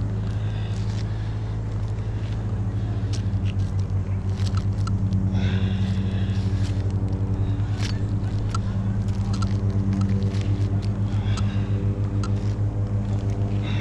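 An engine running steadily at idle with a low hum, its level pulsing a few times a second, with light clicks and knocks over it.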